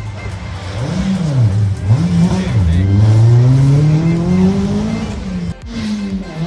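Rally car engine accelerating hard past the spectators. Its pitch rises and drops twice in the first two seconds as the driver lifts and shifts, then climbs in one long pull before the car moves away.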